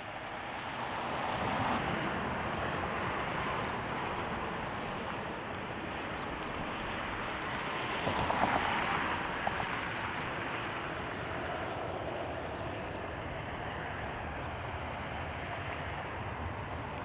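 Jet airliner engine noise, a steady rush that swells about two seconds in and is loudest around eight to nine seconds in.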